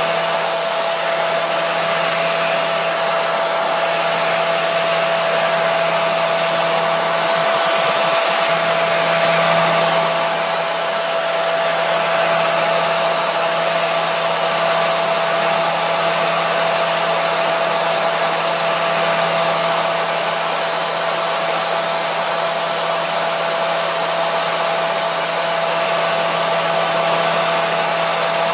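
Hair dryer running continuously at a steady speed: an even rushing airflow hiss with a constant motor whine, played as white noise to soothe a baby to sleep.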